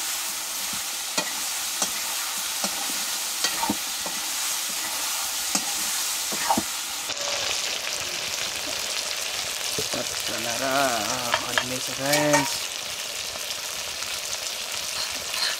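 A masala paste of ginger, garlic and cumin sizzling as it fries in a pan for chicken curry. It is being stirred, with the spoon giving short taps and scrapes against the pan now and then.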